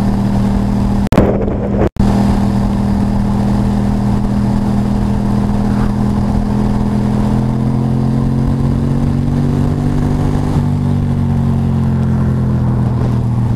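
Motorcycle engine running at a steady cruise, its pitch rising slightly a little past the middle and easing back near the end. The sound drops out briefly with a click about two seconds in.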